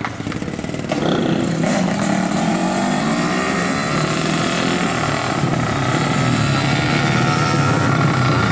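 Yamaha RX-King two-stroke single-cylinder engine with a lightened magneto rotor, revved up about a second in and then held at high revs, its pitch creeping higher toward the end.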